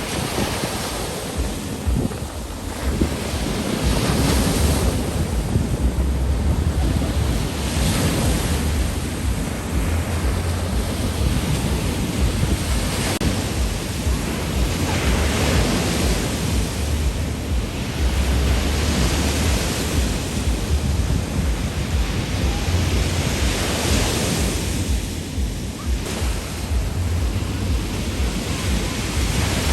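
Ocean surf breaking and washing up a sandy beach, swelling and easing every few seconds, with wind rumbling on the microphone.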